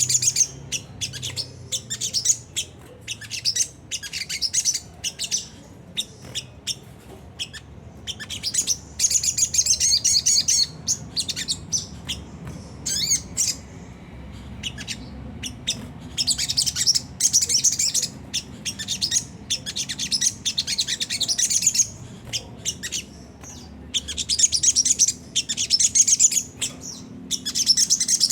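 A sogon bird's rough, rapid chattering call (ngriwik kasar), high-pitched trilled phrases repeated in bursts of a second or two with short pauses between them. It is played as a lure call to draw and set off other birds.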